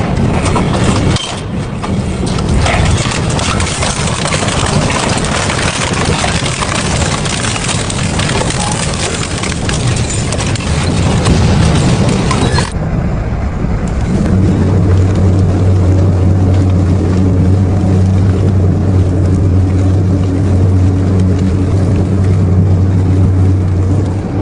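Double-shaft shredder running, with a loud grinding, crashing noise for about the first half; after an abrupt change partway through, a steady low motor hum carries on.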